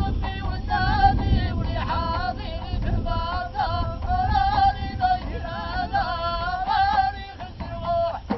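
Women's voices singing a high-pitched Ahidous chant in short, bending melodic phrases, over a steady low rumble.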